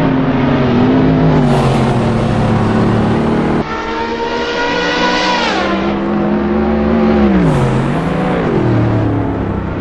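Performance car engines on a race track, in cut-together clips. After a cut a few seconds in, one engine's note climbs, then drops sharply as the car passes by. Later the note dips and rises again as the car lifts off and accelerates.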